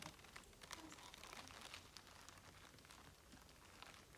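Near silence: room tone with faint scattered small clicks and crackles.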